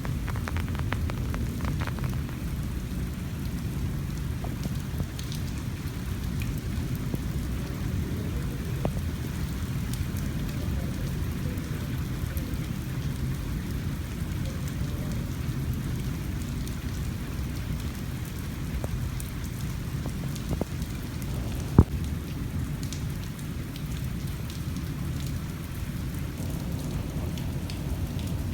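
Steady heavy rain falling, with scattered drips and ticks of drops striking surfaces. One sharp knock about twenty-two seconds in.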